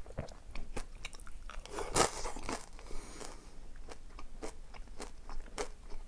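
Close-miked eating: a person chewing and crunching food, with many small sharp crunches and one louder bite about two seconds in.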